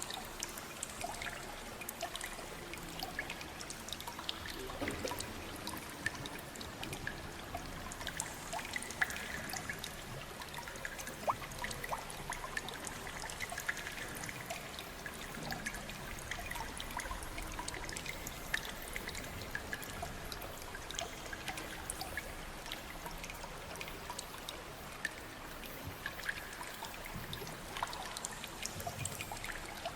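Water trickling and dripping: a steady wash of flowing water with many small drips and splashes scattered through it.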